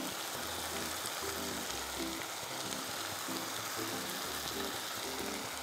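Mushroom, green pea and rice fried rice sizzling steadily in an oiled pan as the rice is mixed in, under background music with repeating low notes.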